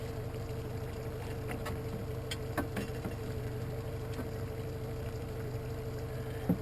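Boat engine running steadily at low speed, a constant low hum with a steady whine above it, and a few light clicks a couple of seconds in.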